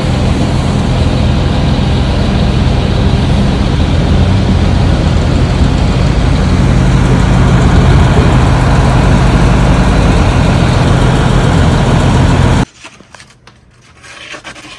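A motor running steadily and loudly, with a low hum under a dense rushing noise, cutting off suddenly near the end.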